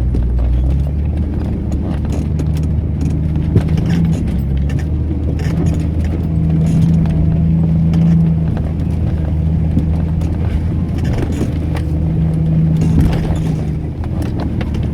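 Vehicle engine running under load on a rough dirt track, its low hum rising and falling, with frequent knocks and rattles as the vehicle jolts over bumps.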